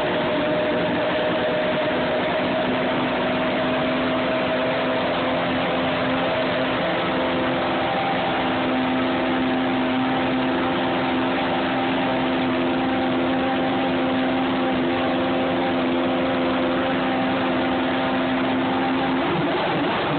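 Aston Martin race car engine idling steadily at an even pitch, with a brief wobble in pitch near the end.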